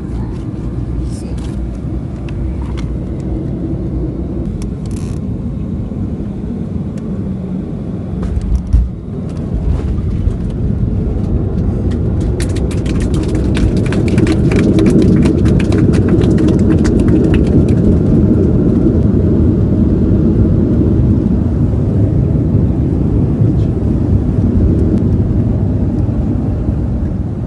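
Airliner cabin noise: jet engines drone steadily, with a single thump about nine seconds in. From about twelve seconds the engines grow louder, with a few seconds of cabin rattling.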